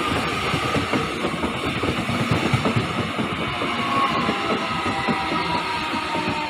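Taiwan Railways EMU800 electric multiple unit passing close by: a steady rumble of wheels on rail with rapid clickety-clack, and a faint whine that falls slightly in pitch. The noise eases near the end as the last car goes by.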